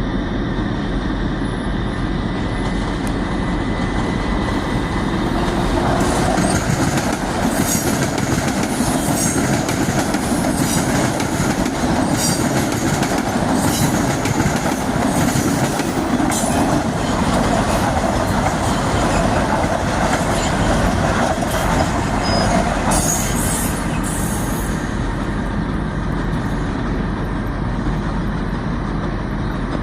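Metro-North commuter train passing on the rails. Its rumble swells about six seconds in and fades after about twenty-five seconds, with short, sharp high-pitched sounds from the wheels through the loudest stretch.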